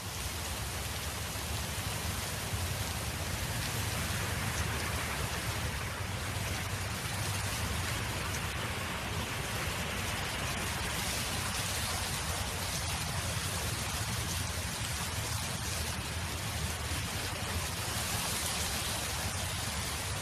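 Steady wind noise: a continuous, even rush with a low rumble.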